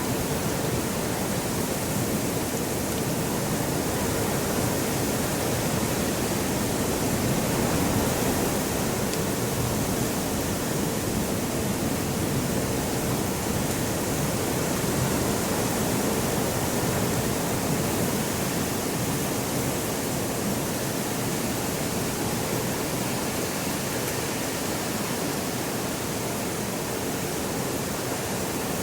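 Wind blowing steadily, a continuous rushing noise that swells slightly now and then.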